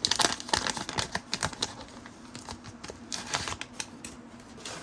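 A trading-card pack being opened and its cards handled: the paper wrapper crinkling and the cards clicking and rustling. There are many short, irregular crackles and clicks, busiest in the first two seconds and again a little after three seconds.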